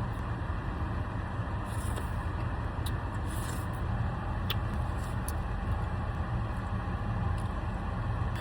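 Steady low rumble of a car's interior with the engine running, with a few faint clicks scattered through it.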